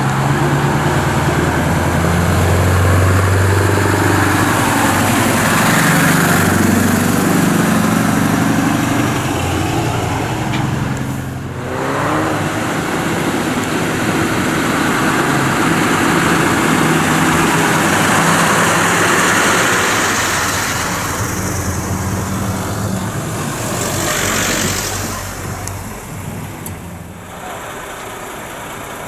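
Lorry engines running as trucks drive past, the engine note rising and falling with a short lull about twelve seconds in, then fading near the end.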